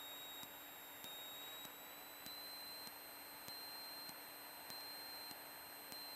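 Faint electrical noise on the aircraft's intercom audio feed: a steady high-pitched whine over hiss, with a soft tick repeating a little under twice a second.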